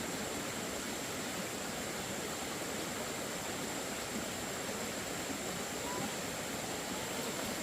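A steady, even rushing noise at a constant level, with a faint high steady whine and a few faint short chirps.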